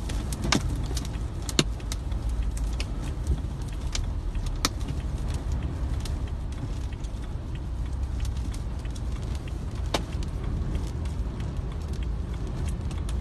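Strong storm wind rumbling low and steady, with a few scattered sharp ticks.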